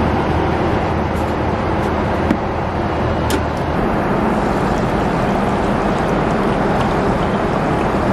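Steady cabin noise of a Boeing 777-300ER in cruise flight: an even rushing of airflow and engines with a low hum underneath.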